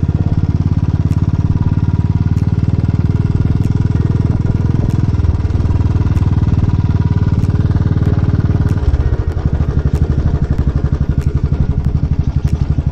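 Royal Enfield Classic 350's single-cylinder engine running with rapid, even firing pulses; the note shifts slightly about nine seconds in.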